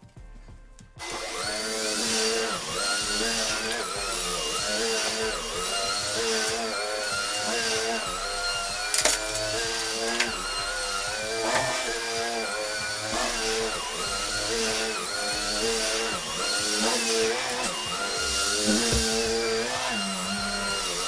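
An electric motor switches on about a second in and runs steadily, its pitch dipping and recovering every couple of seconds as if under changing load.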